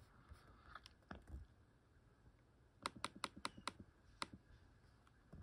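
Faint clicks of computer keyboard keys: a couple of scattered presses, then a quick run of about six in the middle and one more soon after.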